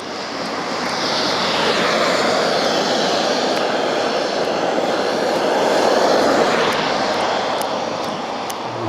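Loud engine noise of something passing by, swelling over the first couple of seconds, holding, then easing off near the end.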